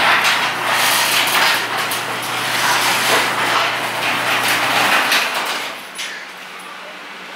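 A motor runs with a steady low hum under loud, rushing, rattly noise. The hum stops about five seconds in, and the noise falls away soon after.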